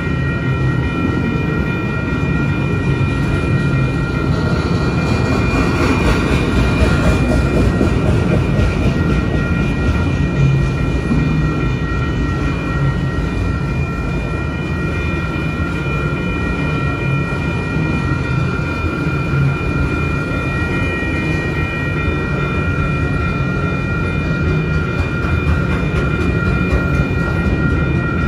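Freight train of autorack cars rolling past at a grade crossing: a steady rumble of wheels on rail. A steady ringing, the crossing bell, runs over it.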